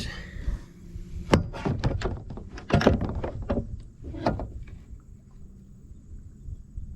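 A series of hollow knocks and thumps on a kayak hull as a caught flounder is handled. The knocks come in a cluster over the first few seconds, then die away.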